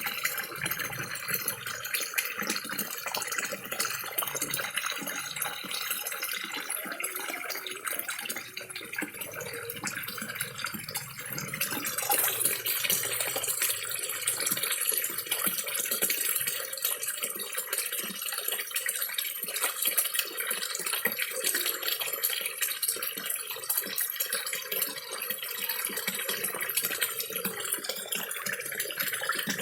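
Small garden waterfall trickling and splashing steadily into a koi pond, with dense fine splashing, a little louder from about twelve seconds in.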